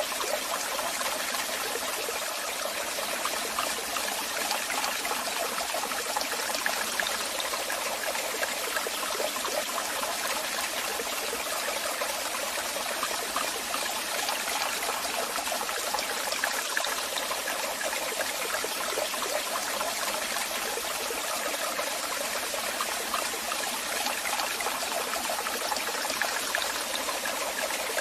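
Waterfall: falling water splashing in a steady, unbroken rush, bright and hissy with little deep rumble.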